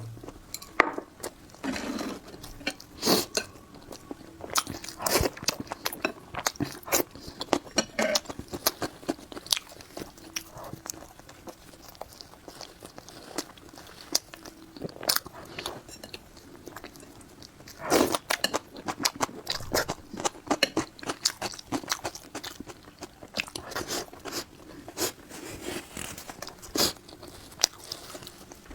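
Close-miked eating sounds: a person biting and chewing food, with many irregular sharp clicks and mouth smacks.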